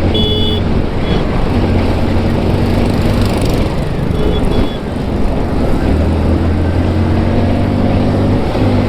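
Motorcycle engine running steadily on the move, mixed with wind and road noise on the helmet microphone. A few short high-pitched beeps sound near the start and again about four seconds in.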